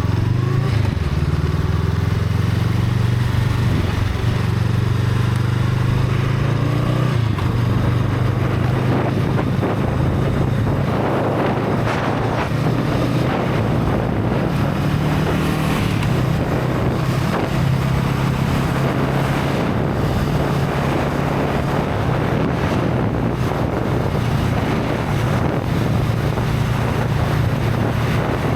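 Honda Rebel 500's parallel-twin engine running through its stock exhaust while riding, its note shifting in pitch a few times, notably right at the start and about seven seconds in. Wind noise on the microphone grows from about eight seconds in.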